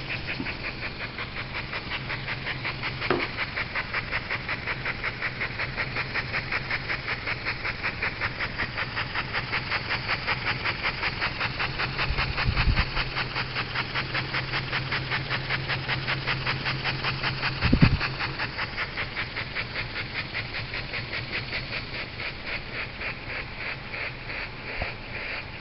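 Two-cylinder brass marine live steam engine running slowly on low steam pressure, its exhaust chuffing in an even beat of about four puffs a second that slows near the end. A steady low hum runs underneath, and there are two dull thumps partway through.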